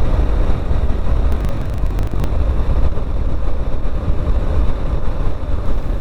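BSA Gold Star 650 motorcycle cruising steadily at road speed: a constant engine and road rumble with no gear changes or revving.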